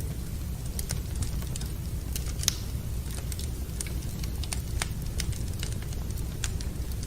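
Wood fire in a fireplace crackling, with irregular sharp pops and snaps, one louder pop about two and a half seconds in, over a steady low rumble.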